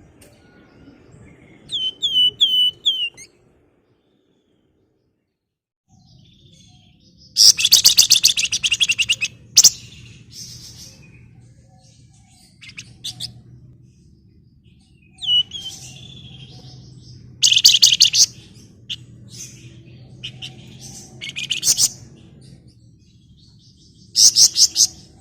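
Flamboyan songbird singing in separate bursts of fast, rattling trills (the 'ngebren' song that keepers prize) and sharp single chirps, each burst lasting about a second, with pauses between. A faint low hum sits under it, broken by a few seconds of dead silence near the start.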